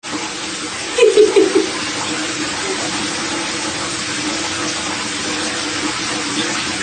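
Water running steadily, like a tap filling a tub or sink, with four short pitched squeaks about a second in.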